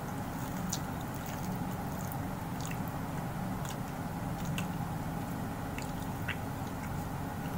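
A person chewing food eaten with the fingers, with scattered short wet mouth clicks and smacks, over a steady low hum.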